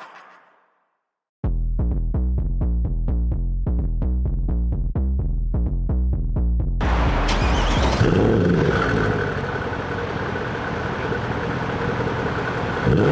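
Electronic music with a heavy bass beat, about three beats a second, then about seven seconds in a sports car's engine and exhaust take over, revving with the pitch falling back after a rise.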